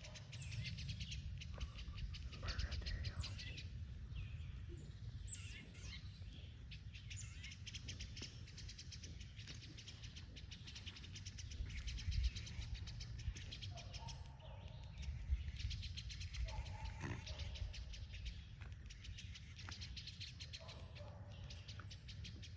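Small songbirds calling in alarm around a nest with a snake near it: rapid high chips run on throughout, with a few short lower calls in the second half. A steady low rumble sits underneath.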